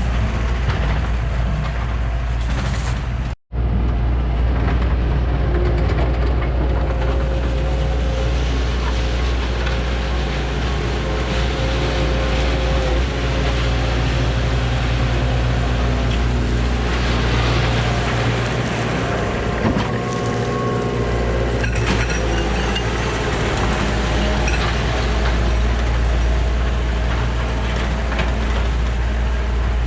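Komatsu excavator's diesel engine running steadily under working load, with a low hum and hydraulic whine, while grading. The sound drops out for an instant a few seconds in.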